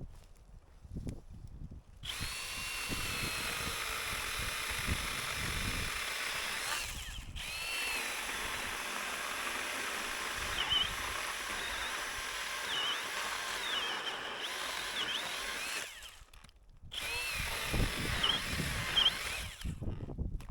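Electric power tool cutting firewood: a steady high motor whine whose pitch dips and recovers as it bites. It runs in three stretches with short stops between, and a few low knocks of handling come near the start and the end.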